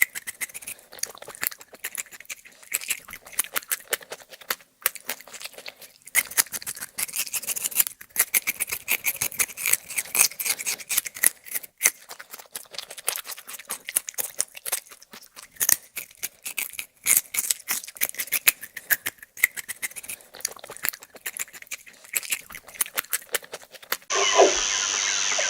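A long run of rapid, irregular sharp clicks and ticks, with a steadier, louder sound coming in near the end.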